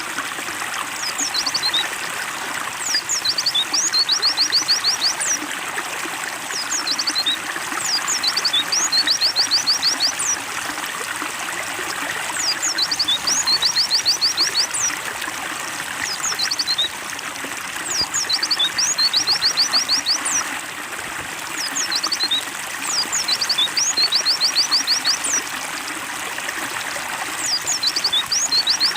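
Steady trickling of running water, with a white-eye (pleci) calling over it every few seconds in short runs of rapid, high chirps.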